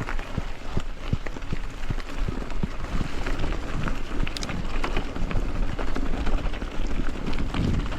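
Bicycle riding over a rough dirt trail: a steady rumble of tyres with frequent knocks and rattles, a few per second, and some wind on the microphone.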